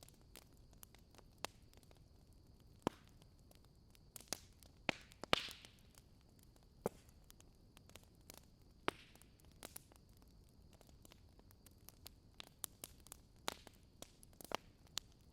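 Wood fire in a fireplace crackling: irregular sharp pops and snaps, the loudest a little past five seconds, over a steady faint high hiss.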